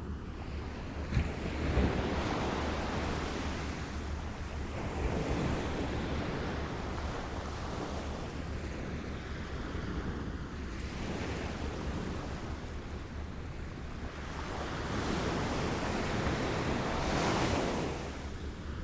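Small waves lapping on a shore, the wash swelling and ebbing several times, the largest swell building in the last few seconds and falling away just before the end. A steady low rumble runs beneath, with a brief click about a second in.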